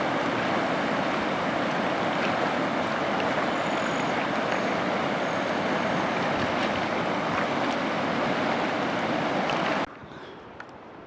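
Steady rush of wind and choppy lake water around a canoe. It cuts off abruptly about ten seconds in to a much quieter background.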